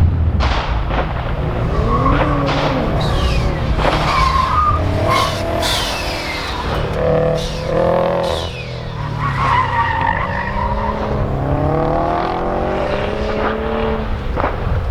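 Subaru WRX STI's turbocharged flat-four driven hard through an autocross course, engine running under load while the tyres squeal again and again in rising and falling tones at the limit of grip. Several sharp knocks or clicks come through along the way.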